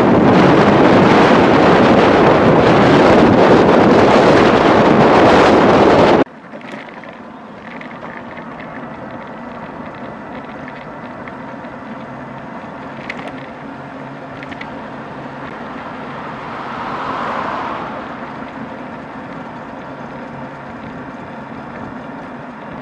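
Heavy wind buffeting on a compact camera's built-in microphones, recorded without any wind protection. It cuts off suddenly about six seconds in to a much quieter recording in which the wind noise is gone, leaving a steady low hum that swells briefly near the end.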